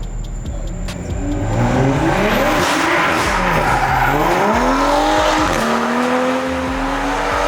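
A car drifting: the engine revs up about a second in, dips and climbs again, then holds at high revs, with the tyres squealing throughout.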